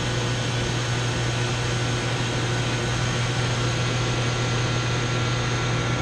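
Chiller's chilled-water pump motor running with a steady low hum and an even mechanical whir, now running without the shaking it had before.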